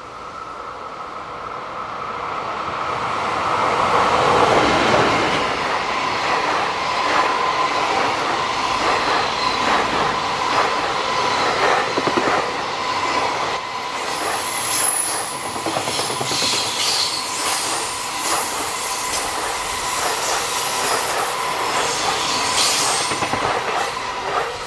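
Freight train passing on a curve, growing louder over the first four seconds as it approaches, then a long run of wagons with wheels clicking over rail joints and a steady squeal of wheels rubbing on the curved rail. A brief higher-pitched squeal comes about halfway through.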